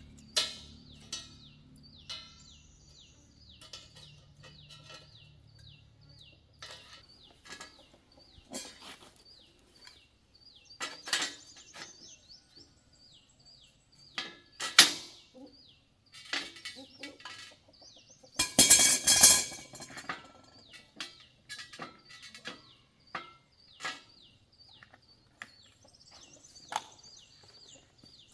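Birds chirping repeatedly, a steady run of short falling chirps, over scattered clicks and knocks of hand-tool work. A louder rasping burst lasts about a second and a half around two-thirds of the way in, and a low hum fades out in the first few seconds.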